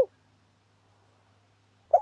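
Spotted dove lure call: the last coo of one phrase ends at the very start, then a pause of nearly two seconds with only a faint low hum, and the next cooing phrase begins just before the end.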